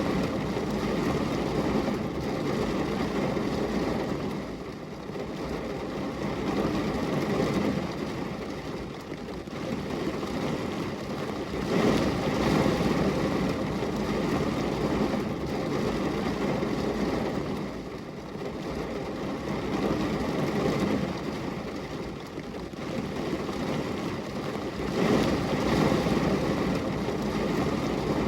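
Steady rain falling on a glass window, a dense, fairly low rushing noise that swells and eases several times.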